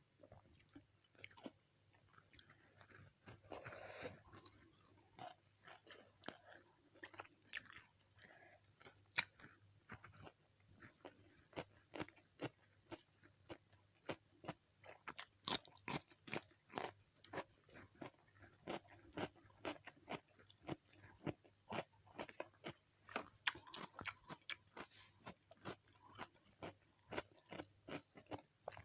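Close-miked chewing of a meal, with many short crisp crunches that come more often in the second half.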